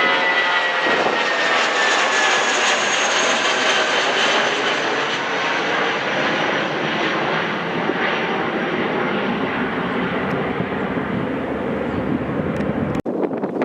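Jet airliner passing by with its engines running, a broad jet noise with an engine whine that slowly falls in pitch as it moves away. The sound cuts off suddenly near the end.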